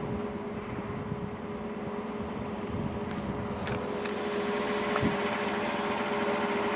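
Diesel freight locomotives idling: a steady engine hum with a constant drone over a low rumble, growing slightly louder.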